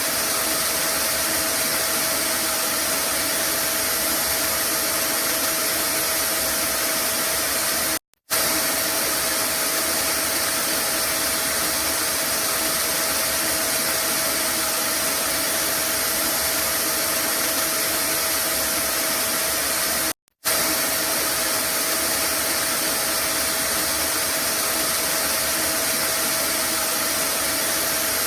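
Vacuum cleaner motor running steadily: a constant rushing of air with a steady hum and a faint high whine. The sound drops out for a split second twice, about 8 and 20 seconds in.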